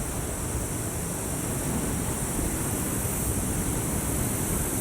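Ocean surf washing ashore: a steady rushing noise with no distinct breaks, and a constant high hiss above it.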